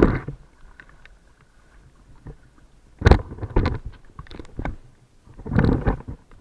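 Water splashing and sloshing in three bursts, the middle one a run of sharp splashes, as someone works through shallow floodwater catching fish.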